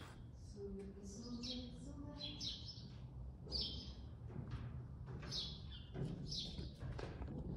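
Small birds chirping: short, high chirps in quick little series, repeating every second or so.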